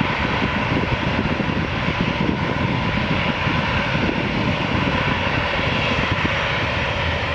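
Airbus A340's four jet engines at takeoff power: a loud, steady roar with a ragged low rumble.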